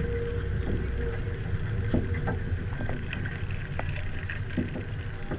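Mazda Miata's four-cylinder engine running at low speed as the open-top car rolls slowly, with wind rumbling on the microphone and occasional sharp ticks.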